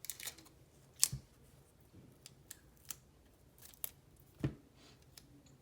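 Scissors snipping a piece of adhesive tape, a few short sharp cuts spread out with light handling of tape and paper between them; the loudest snips come about a second in and again late on.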